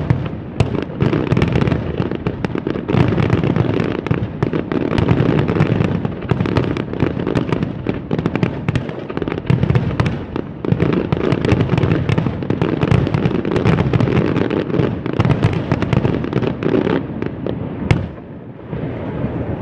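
Fireworks display: a dense, continuous barrage of booming bursts and crackles that dies down about 18 seconds in.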